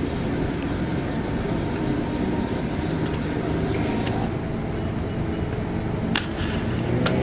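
Steady low rumble of a Scania K410IB double-decker bus on the move, engine and road noise together, with two sharp clicks near the end.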